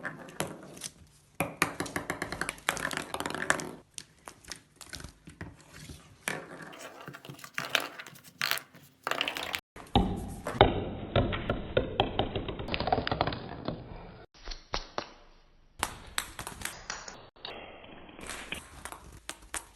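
A pet bird playing with a small toy ball: irregular light taps, clicks and knocks in quick runs, stopping and starting.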